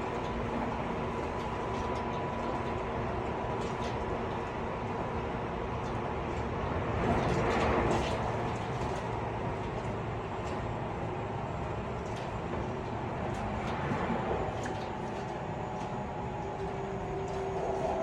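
Onboard running noise of a Tobu 50090 series electric train heard inside a motor car at speed: a steady rumble of wheels on rail with a few held motor tones and scattered short clicks. About seven seconds in the rushing noise swells briefly louder, and near the end the tones shift to new pitches.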